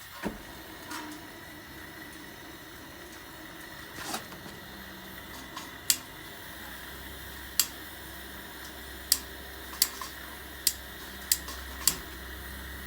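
Steady hiss of propane gas from a dual-burner tank-top heater being relit after its tip-over shutoff put it out. About ten sharp, irregularly spaced clicks of a lighter sound over the hiss, and a low rumble comes in about halfway.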